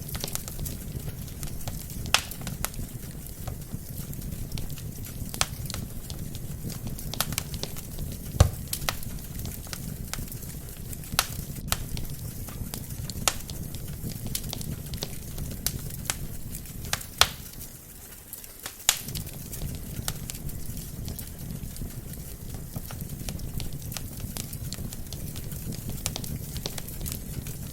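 Wood fire burning in a fireplace: a steady low rumble of flames with irregular sharp crackles and pops from the burning logs, the loudest pops about eight and seventeen seconds in. The low rumble briefly drops away for about a second around eighteen seconds in.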